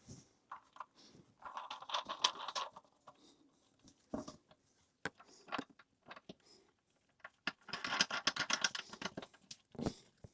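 Small toilet-seat fastening hardware being handled and fitted: plastic nuts and bolts rattling and clicking in two rapid bursts of a second or two each, with scattered single clicks between.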